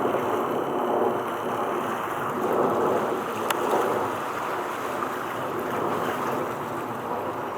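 Steady rushing noise of wind and water on open water, with a single sharp click about three and a half seconds in.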